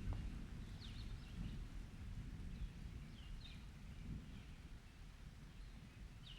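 Low rumble of distant thunder dying away, with a few faint, short high chirps scattered through it.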